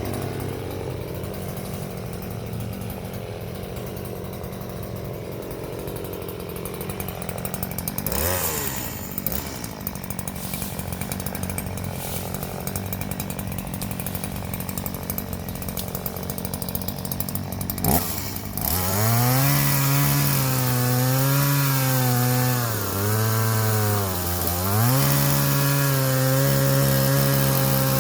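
Stihl two-stroke chainsaw idling steadily, with a brief blip of throttle about eight seconds in. After a sharp click, the engine is revved up and held at higher speed, dropping back briefly twice, and falls back toward idle at the end.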